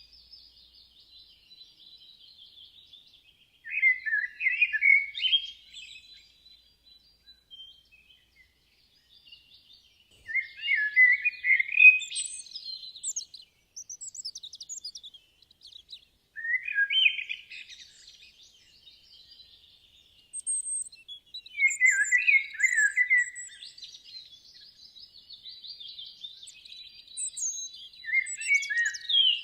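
Songbirds singing: one bird repeats a short, loud song phrase about every six seconds, over fainter, steady twittering from other birds.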